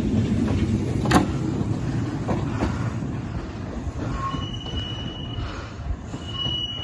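Kintetsu 16200 series train moving off through the station: a low rumble that slowly fades, a sharp click of wheels over a rail joint about a second in, and high, thin wheel squeals in the second half.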